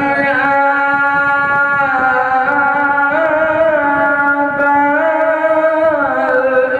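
A man's voice in melodic Quran recitation (tajwid), holding the word "wa-lā" as one long drawn-out note that steps up and back down in pitch a couple of times.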